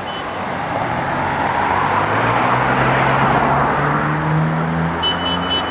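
Road traffic passing, the noise swelling and a motor vehicle's engine note rising in pitch as it pulls past. Near the end comes a quick series of short, high beeps.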